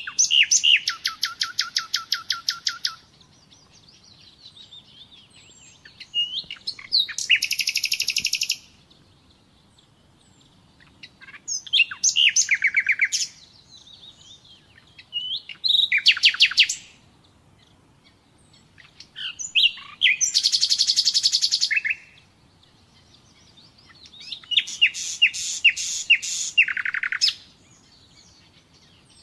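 Common nightingale singing: six phrases of fast repeated notes, each two to three seconds long, with pauses of a few seconds between them.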